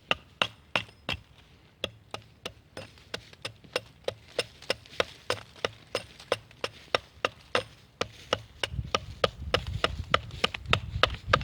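Hatchet chopping at a wooden stool seat in quick, light, regular strokes, about three a second, hewing the top flat. A low rumble joins in near the end.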